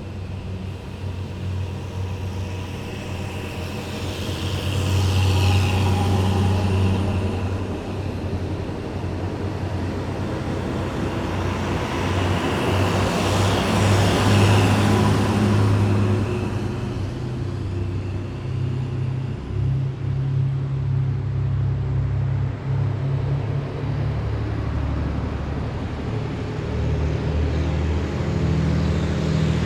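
A column of heavy military vehicles driving past, with a steady deep engine drone. Two vehicles pass close, about five seconds in and again around fourteen seconds in, each swelling and fading with a high whine and road noise.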